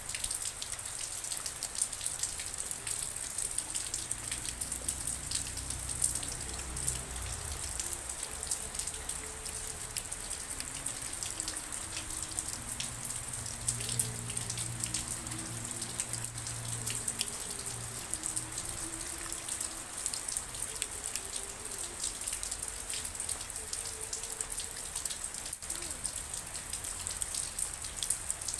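Steady rain falling: an even hiss dotted with many separate sharp drop impacts.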